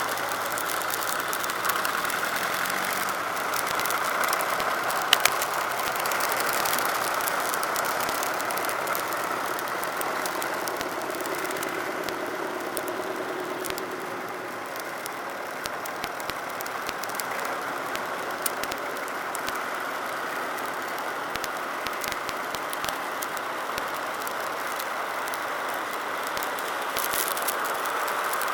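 Tractor engines running steadily, with rattles and small clicks throughout and one sharp click about five seconds in.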